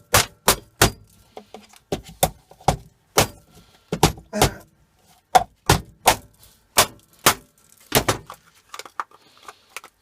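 A run of sharp, irregular knocks and clicks, roughly two a second, from dishwasher filter parts being handled and tapped, dying down to a few faint clicks about eight seconds in.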